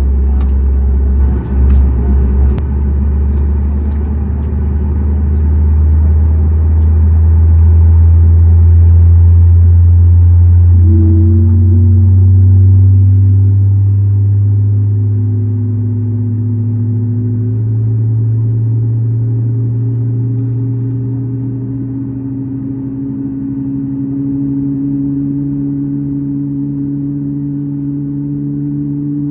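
Boeing 737 MAX 8's CFM LEAP-1B jet engines spooling up during engine start, heard inside the cabin: a loud low hum that rises slowly in pitch. A second set of rising tones joins about eleven seconds in.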